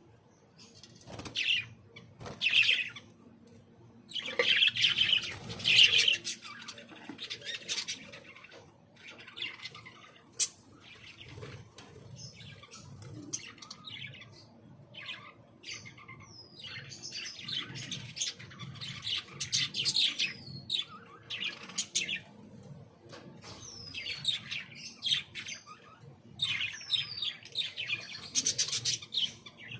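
Several small cage birds chirping and chattering on and off in an aviary, with louder bursts of chatter and a few short, falling whistled notes.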